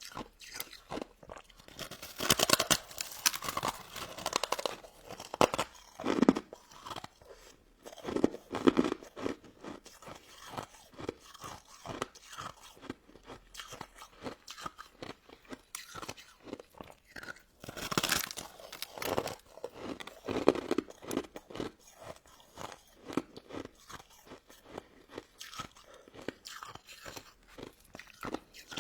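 Close-miked chewing and crunching of a crisp, icy pink crystal snow ice dessert: a dense run of crackling bites, with louder bursts of crunching a couple of seconds in and again about two-thirds of the way through.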